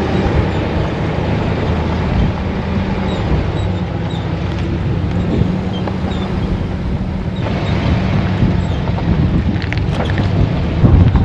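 Steady vehicle engine hum with road and wind noise, as from a vehicle driving at a constant speed.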